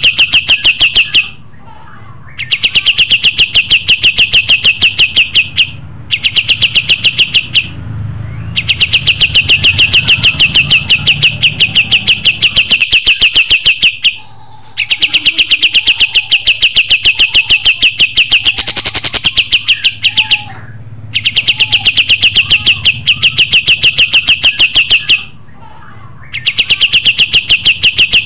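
Kapas tembak songbird singing hard in a masteran recording: long phrases of rapid, evenly repeated high chirping notes, each running several seconds, broken by short pauses.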